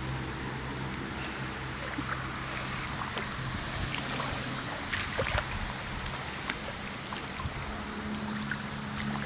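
Flooding rainwater running and splashing, a steady rushing with scattered small splashes and clicks, a cluster of them about five seconds in. A low steady hum sits underneath, strongest at the start and near the end.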